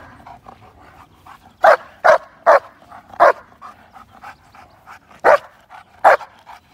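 A young show-line German Shepherd barking at a person it is guarding. There are about seven loud, short barks at uneven intervals, with fainter barks between them.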